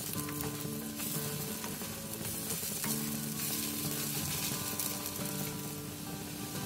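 Spinach pancakes sizzling in shallow oil in a nonstick frying pan. A spatula turns them over, with short scrapes and taps against the pan.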